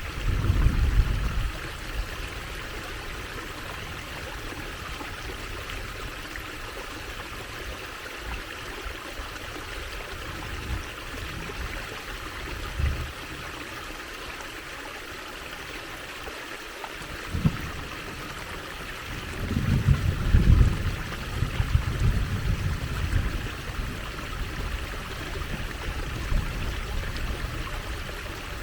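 Water trickling and babbling steadily over stones, a small stream. Low rumbling bursts break in a few times, loudest about two-thirds of the way through.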